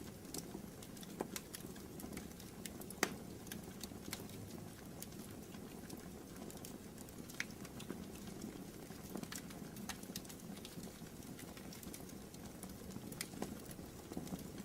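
Fire in a fireplace crackling: scattered irregular pops and snaps over a steady low hiss of the flames, with one louder pop about three seconds in.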